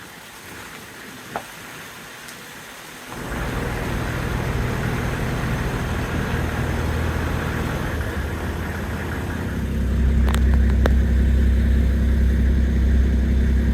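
A motor vehicle engine running steadily. It comes in suddenly about three seconds in and grows louder and deeper near ten seconds.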